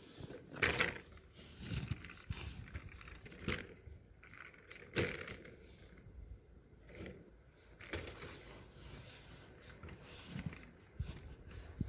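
Snow shovel blade pushed through packed snow over a gravel driveway: irregular scrapes and knocks, about seven of them spread unevenly, as the blade scrapes and catches on the surface.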